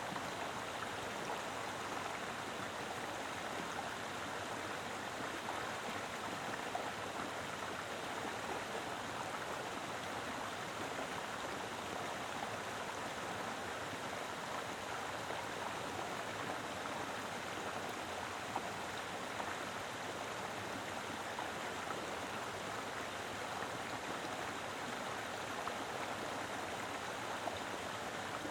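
Mountain river flowing steadily over rocks, a constant rushing of water with no change in level.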